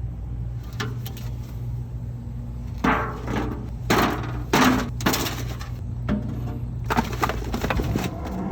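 A series of sharp knocks and crunchy strokes, unevenly spaced and several in quick succession, over a steady low hum.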